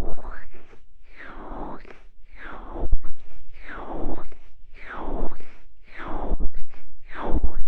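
Hands repeatedly cupping over and rubbing a binaural microphone's ears, about once a second. Each pass is a muffled whoosh that falls in pitch, with low handling thumps.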